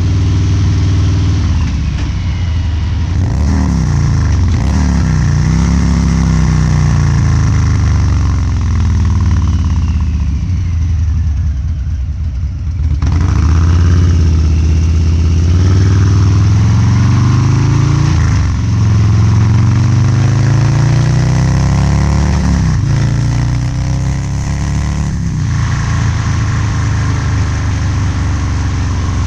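Harley-Davidson Low Rider's 129 cubic inch V-twin with Two Brothers Racing exhaust on the road, revving up and falling back several times as the rider opens and closes the throttle. It is loud, with a deep exhaust note and the pitch rising and dropping throughout.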